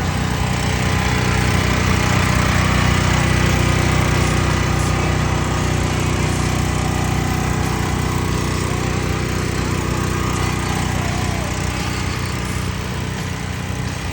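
Dirt bike engine running steadily at one speed, with no revving, through the whole stretch.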